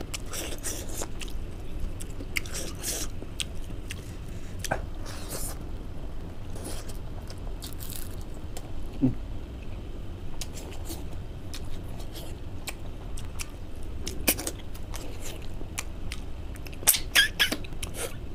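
Close-miked eating sounds: chewing, lip smacks and wet mouth clicks as food is eaten by hand, with a few louder smacks near the end. A steady low hum runs underneath.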